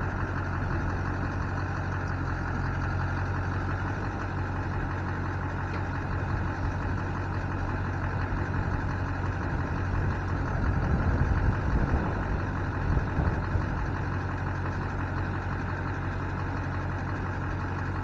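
LB7 Duramax 6.6-litre V8 turbodiesel idling steadily in a pickup truck, with a few louder bumps about 11 to 13 seconds in.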